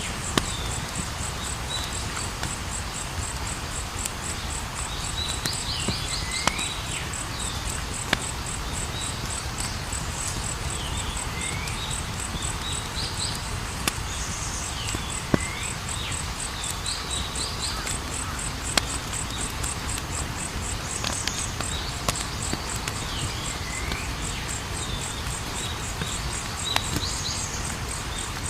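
Campfire burning with a low rumble and sharp crackling pops every few seconds, under a continuous high cricket-like insect trill and short chirping calls repeated every few seconds.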